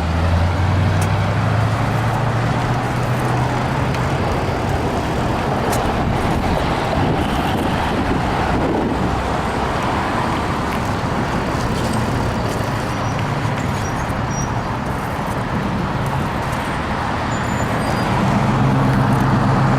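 Road traffic: motor vehicles passing on the road, a steady rush of road noise, with a low engine hum swelling at the start and again near the end.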